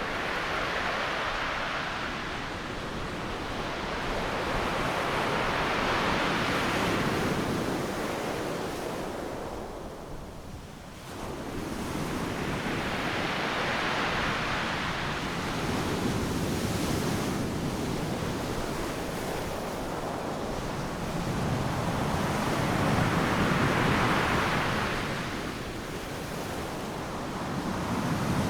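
Ocean surf breaking on a beach, the rushing wash swelling and fading in slow waves, with a brief lull about ten seconds in.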